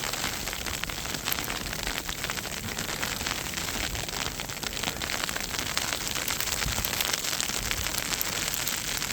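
Steady crackly patter and hiss of heavy falling snow striking nearby surfaces and the microphone during a snowstorm.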